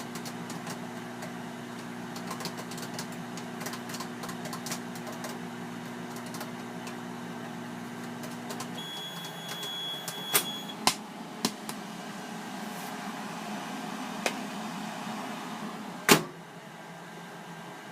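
Amana 2100-watt commercial microwave running with a steady hum while popcorn pops inside. About nine seconds in the hum stops as the cooking cycle ends, and a single long high beep sounds. After that the fan keeps running, with a few sharp pops or clicks and one loud click near the end.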